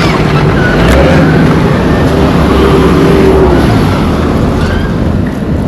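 Loud, steady vehicle rumble with road and wind noise, heard from on board a moving vehicle.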